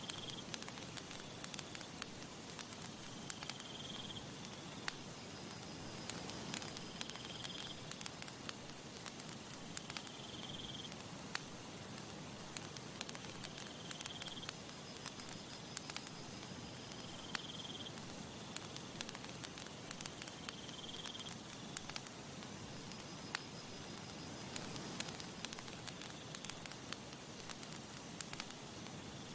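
Campfire crackling steadily, with many sharp pops and snaps over a soft hiss. A short high chirp repeats about every three and a half seconds.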